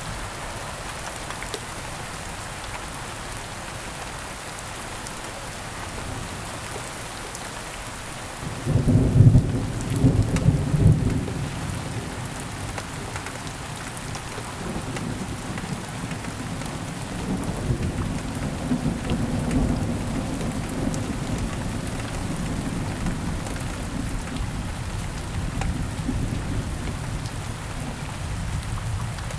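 Steady heavy rain hissing down, with a sharp, loud clap of thunder about a third of the way in that rumbles for a couple of seconds, followed by a longer, softer roll of thunder that lasts through most of the rest.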